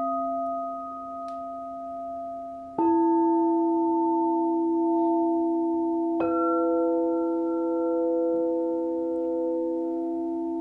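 Singing bowls ringing with long, steady tones. New bowls are struck twice, about three seconds in and about six seconds in, and each strike adds fresh tones over the ones still sounding.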